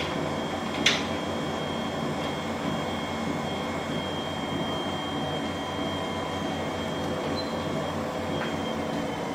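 Treadmill running with its motor humming and the belt rolling steadily over the deck, freshly cleaned and lubricated and being test-run after a belt adjustment. There is a single sharp click about a second in.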